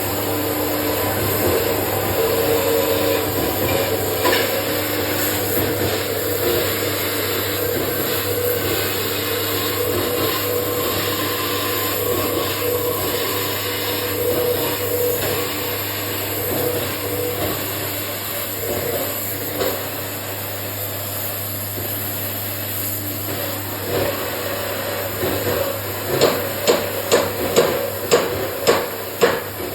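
Workshop tool noise with a steady running hum, then a run of evenly spaced hammer blows near the end, about three every two seconds.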